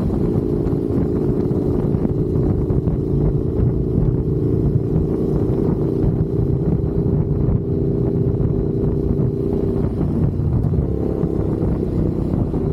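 Motorcycle engine running steadily at cruising speed, with wind rushing over the microphone and a slight change in engine pitch near the end.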